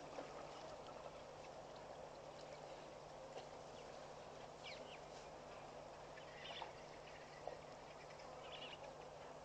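Faint waterhole ambience: a steady hiss with a low hum under it, and a few short, high bird chirps around the middle and near the end.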